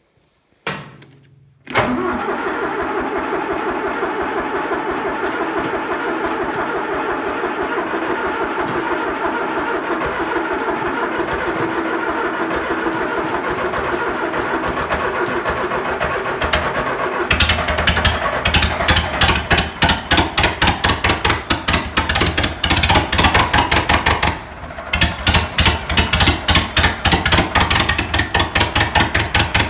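Diesel engine of an International 844 tractor being cold-cranked by its starter, a long, even pulsing crank. About halfway through it grows louder and pulses in a slower, heavier rhythm, with a short break near the end, as the engine struggles to start.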